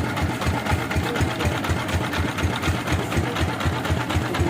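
Engine running steadily at a constant speed, with an even low thumping beat of about five or six pulses a second.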